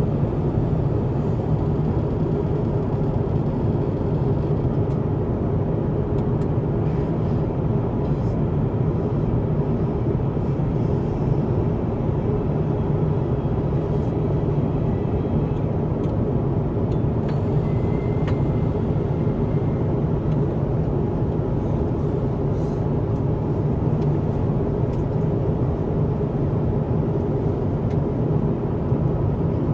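Steady low rumble of an Airbus A350-1000's cabin in flight: airflow and engine noise with a few faint ticks.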